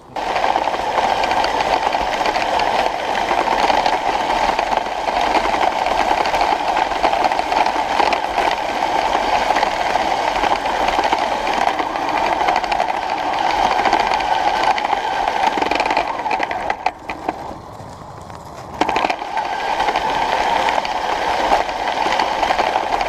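Kyosho Blizzard RC snowcat's Traxxas 380 electric motors and gear-driven tracks running under throttle: a steady whirring drive noise that drops away for about two seconds past the middle, then picks up again.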